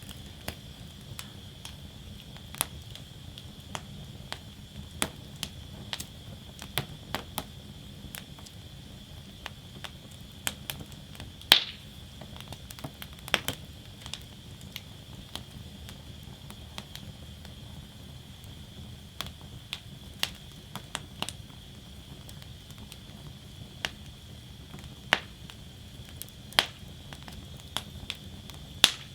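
Wood fire crackling in a metal fire basket: irregular crackles and sharp pops, with a louder snap about eleven seconds in and a few more near the end, over the low steady rumble of the flames and a faint steady high hiss.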